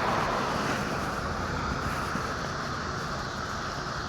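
Steady rushing road noise, like a vehicle going by or tyres and air while riding, slowly fading away.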